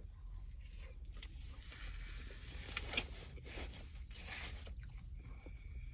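A person chewing a mouthful of macaroni and cheese with bacon and chicken: soft squishing and a few short crunchy clicks over a steady low hum.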